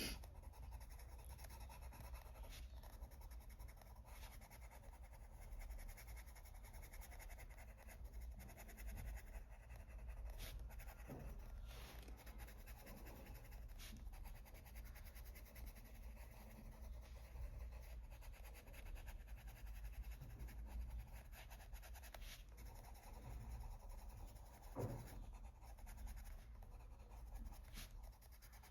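Faint scratching of a colored pencil shading on paper, blending in a lighter green, with a few small ticks.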